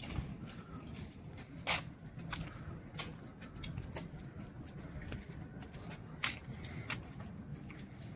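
Insects trilling steadily at a high pitch, with two sharp clicks about two seconds in and again near the end.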